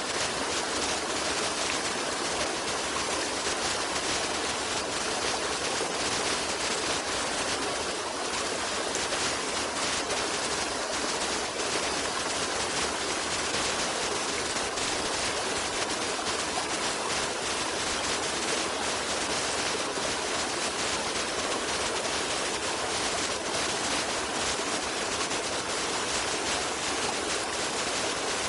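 Running water, such as a stream, making a steady, even rushing with no breaks or changes.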